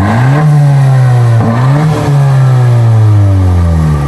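Stock exhaust of a 10th-gen Honda Civic Si's turbocharged 1.5-litre four-cylinder, recorded from behind the car, revved twice with a sharp rise in pitch each time and a slow fall back toward idle.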